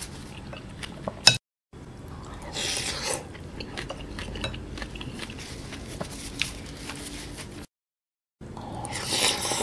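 Close-mic chewing of kimchi stew and rice, with a wooden spoon scraping and clicking against a glass bowl. The sound drops out to silence twice, briefly.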